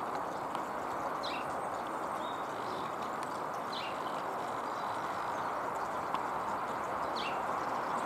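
A bird gives a short, high, falling chirp three times, a few seconds apart, over a steady rushing background noise.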